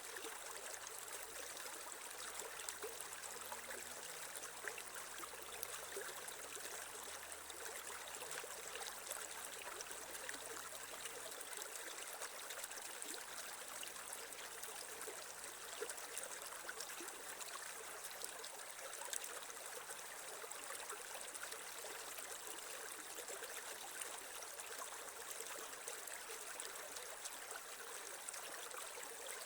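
Creek water running and trickling steadily over stones.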